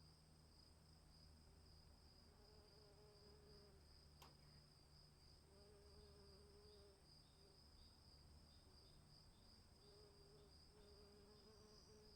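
Crickets chirping faintly in a steady, fast pulsing trill, with a second insect adding short evenly spaced chirps for several seconds in the middle. A low wavering hum comes and goes a few times, and a faint click sounds about four seconds in.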